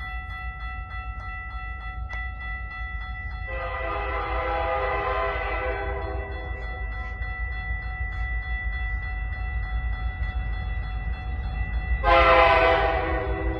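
Approaching CN freight locomotive sounding its horn: a long blast starting about three and a half seconds in, and a second, louder blast near the end. Under it, the crossing's high-pitched Safetran Type 3 electronic bell rings steadily, with a low rumble.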